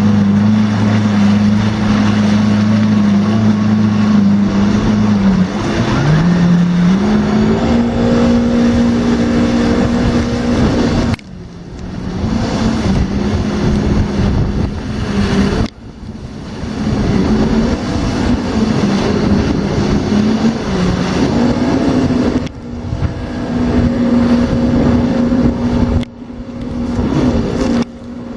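Watercraft engine running at speed over rushing wind and water, its pitch stepping up about six seconds in. The sound drops away abruptly four times and builds back each time.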